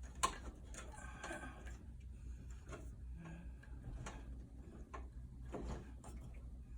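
Irregular small clicks and taps of a screw and screwdriver being worked into the blower motor mount of a PTAC unit, with one sharp click about a quarter second in. A low steady hum runs underneath.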